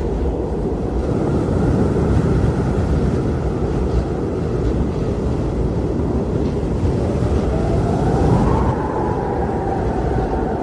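Blizzard wind blowing hard in a steady low rush, with a whistling howl that rises in pitch about eight seconds in and then holds.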